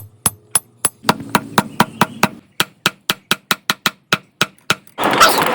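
Hammer blows on steel in a steady rhythm, about three and a half strikes a second, as the sprocket is beaten into a blade shape. Near the end, a short loud burst of harsh noise cuts in.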